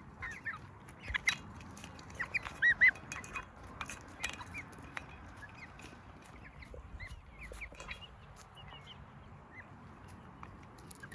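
Chickens calling, a run of many short high peeps, loudest about three seconds in.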